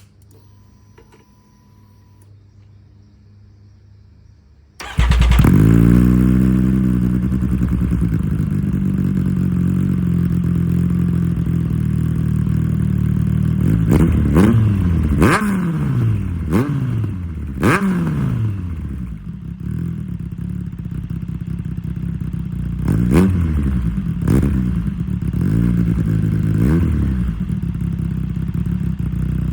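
Triumph Street Triple 765 inline three-cylinder engine, breathing through decatted stock headers and an HP Corse GP07 exhaust, starting about five seconds in. It settles from a higher idle to a steady idle, with a series of quick throttle blips. It is pretty loud, and a short beep is heard before the start.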